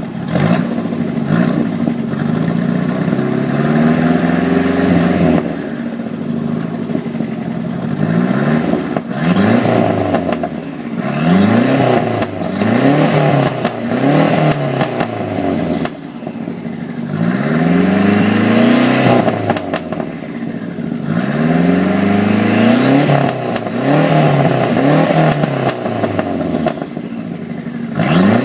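Turbocharged Renault 5's engine and exhaust, revving up hard and dropping back over and over, about a dozen rising sweeps in pitch with short lifts between them.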